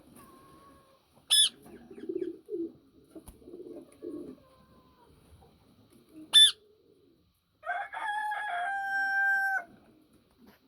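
Yellow Indian ringneck parakeet calling: two short, sharp high shrieks about five seconds apart, with low soft murmuring sounds between them. Near the end comes one long, steady call of about two seconds.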